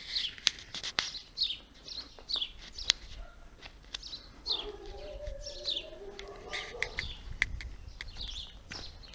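A small bird chirping over and over, a short falling chirp about twice a second, with a lower wavering bird call in the middle. Several sharp clicks, the loudest sounds, come at irregular moments over a faint low rumble.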